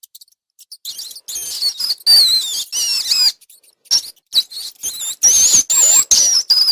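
Rats squeaking: a run of short, high-pitched squeaks with wavering pitch, coming in quick bursts after a brief pause at the start.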